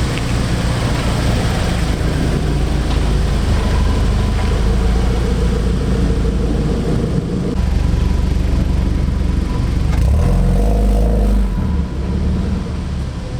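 Modified car's engine and exhaust rumbling at low speed, with a deep, steady drone that shifts about seven and a half seconds in and swells briefly around ten seconds.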